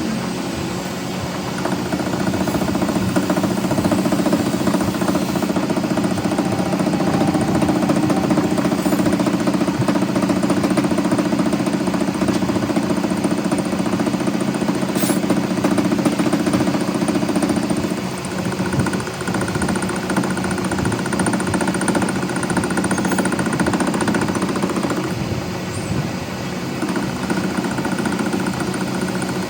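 Workshop machinery running steadily with a fast rattle and hum; the sound changes about 18 seconds in.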